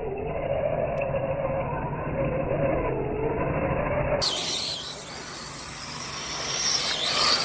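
Electric 1/10-scale RC rally car driving on concrete, its motor whine rising and falling with the throttle over tyre noise. The sound changes abruptly about four seconds in, and a higher whine then rises toward the end.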